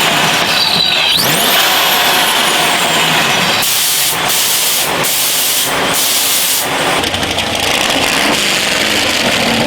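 A car engine running, with several loud bursts of hiss in the middle.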